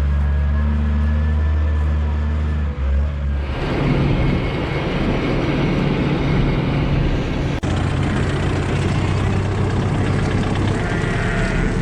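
Combine harvester running steadily with a low engine hum. About three and a half seconds in, the sound changes abruptly to a louder, rougher rush of machinery, and it changes again with a brief click about halfway through.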